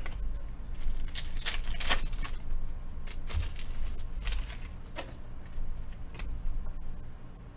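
Trading-card pack wrapper crinkling and cards being handled in a series of short, sharp rustles, with dull handling bumps underneath.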